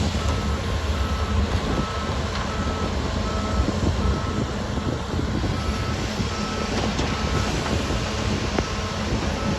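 Reversing alarm of a heavy construction vehicle beeping steadily at about two beeps a second over the low rumble of its diesel engine as it backs up.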